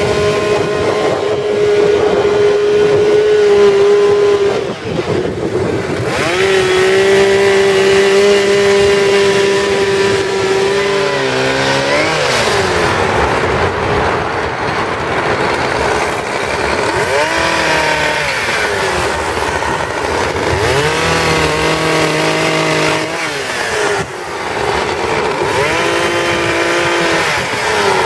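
Two-stroke chainsaw running at high revs while cutting wood. It lets off and speeds back up several times, about every five or six seconds.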